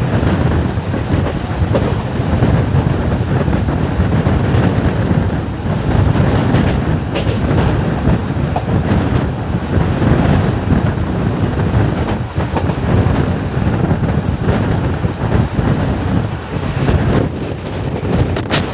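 Steady, loud rumble of a passenger train's coach wheels running at speed over the track.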